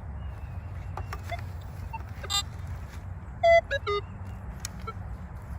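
Metal detector sounding off on a target: three short electronic beeps, each lower in pitch than the last, after a few faint clicks, over a steady low rumble.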